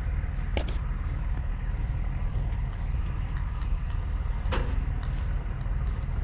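Steady low rumble of idling semi-truck diesel engines, with two sharp clicks, one about half a second in and one about four and a half seconds in.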